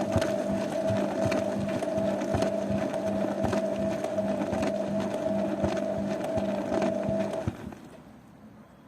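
Zanussi washing machine running, its motor giving a steady hum over irregular clicks and knocks from the turning drum, then stopping about seven and a half seconds in.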